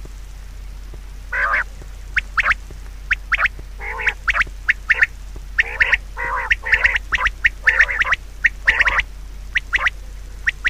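Birds giving a rapid, irregular series of short harsh calls, several overlapping in the middle of the stretch.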